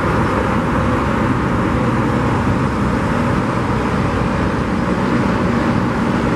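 Steady roar of road traffic, a constant rushing noise with a low engine hum underneath.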